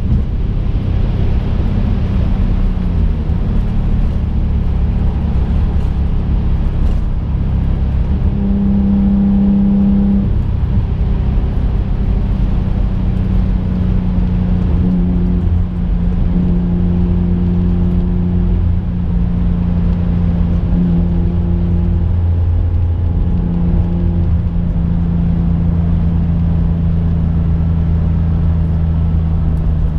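Engine of a twin-turbocharged 2005 Infiniti G35 coupe heard from inside the cabin while driving, a steady drone with road noise. The engine note dips near the start, rises briefly and falls back about ten seconds in, then holds steady as the car cruises.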